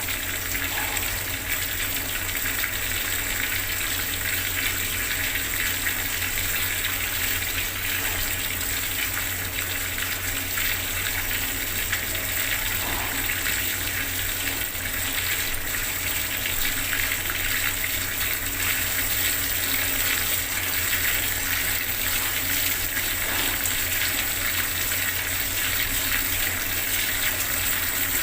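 Bathroom water tap running at full flow, a steady splashing gush of water.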